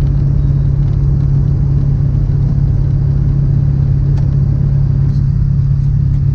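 Vehicle engine running with a steady low drone, no change in pitch or level.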